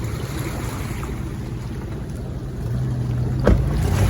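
Truck engine running steadily with a low hum, its pitch lifting slightly near the end, and one sharp click or knock near the end.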